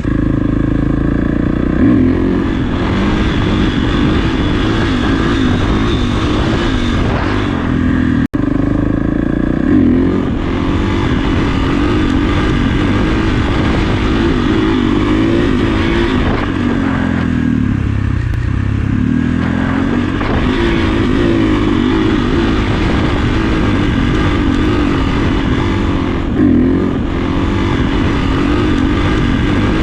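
Kawasaki KX450F dirt bike's single-cylinder four-stroke engine running on the move, its pitch rising and falling with the throttle, with a momentary cut in the sound about eight seconds in.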